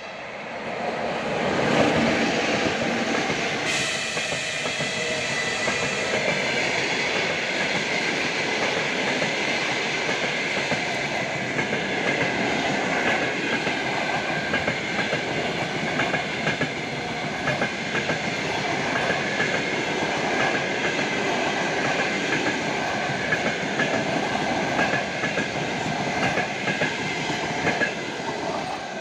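Passenger train hauled by an EP2K electric locomotive passing close by. The sound builds over the first couple of seconds, then holds steady, with wheels clattering over the rail joints in a regular clickety-clack and a steady high whine running under it.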